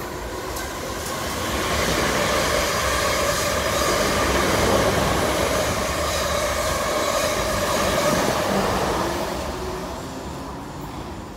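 A South Western Railway passenger train passing along the platform, its wheels running on the rails with a steady whine over the noise. It grows louder as it approaches, stays loud while the carriages go by, and fades in the last few seconds as it moves away.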